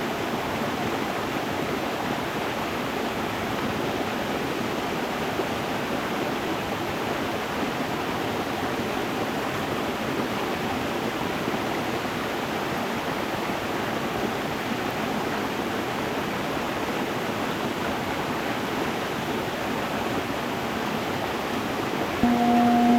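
Stream water running over stones, a steady, even rush. Near the end a singing bowl starts ringing with a low, sustained tone that is louder than the water.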